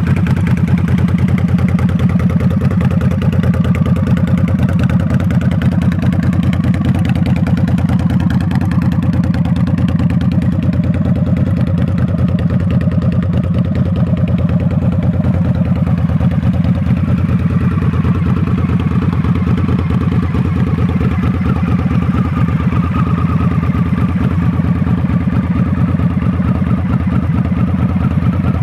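Harley-Davidson V-Rod Muscle's liquid-cooled Revolution V-twin idling steadily, with an even pulse and no revving.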